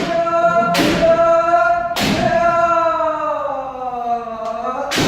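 Kendo practitioners' kiai: a long, held shout that sags in pitch and rises again near the end, broken by sharp shinai strikes with stamping footwork three times.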